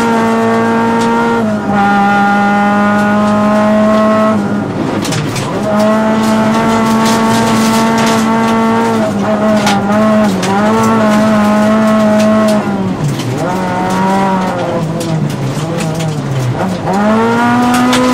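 Honda Civic Type-R rally car's four-cylinder engine heard from inside the cabin, held high in the revs at full stage pace. The pitch dips at each gearshift and lift, falls and wavers through a slower stretch about two-thirds in, and climbs steeply again near the end. Scattered sharp clicks of gravel strike the car.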